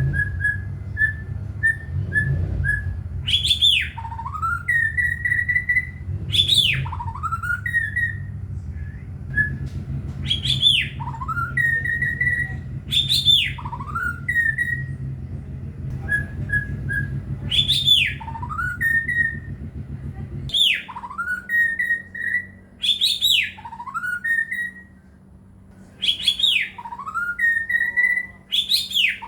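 White-rumped shama (murai batu) singing a clear whistled phrase over and over, about every two to three seconds: a few short level notes, then a sharp downward swoop and an upward slur. A low rumble underneath stops about two-thirds of the way through.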